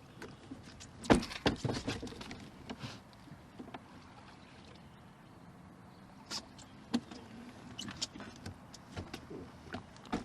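Knocks, thumps and clatter in a fishing boat as a freshly landed catfish is handled. The loudest knocks come in a cluster about a second in, followed by scattered lighter clicks.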